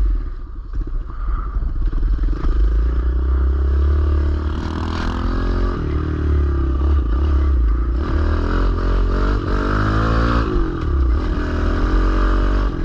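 Kawasaki KLX110L pit bike's small four-stroke single-cylinder engine being ridden, revving up and dropping back several times as the throttle is worked through the gears.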